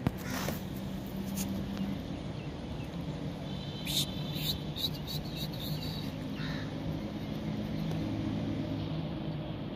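Low steady hum of the standing train with a background murmur, a sharp click at the start, and a few short bird calls about four seconds in.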